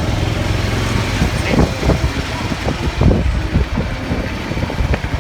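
A vehicle's engine running with a steady low hum, broken by irregular low rumbles from about a second and a half to four seconds in.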